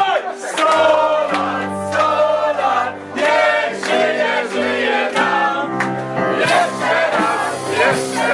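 Several voices singing together over music with steady held low notes.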